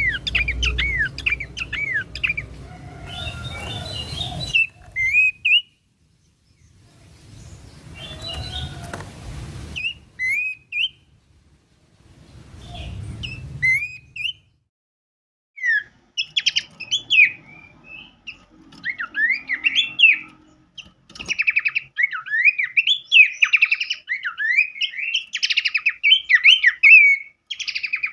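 Songbird masteran: short, sharp chirps and whistled phrases in quick succession. They come in scattered bursts with pauses at first, then turn into a dense, continuous chattering song about halfway through. A low hum and brief bursts of hiss sit under the first half.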